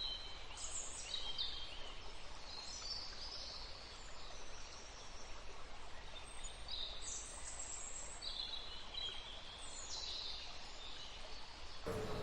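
Forest ambience: birds calling in short high chirps and trills over a steady hiss of background noise. Just before the end, a new sound with a steady held tone cuts in.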